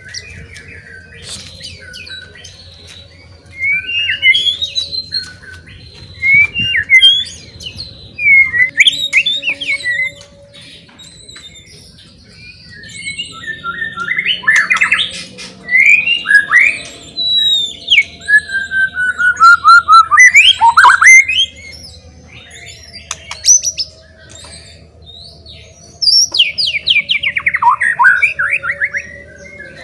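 White-rumped shama (murai batu) singing a loud, varied song. It comes in bursts of sliding whistles, rapid notes and fast descending trills, with short pauses between phrases.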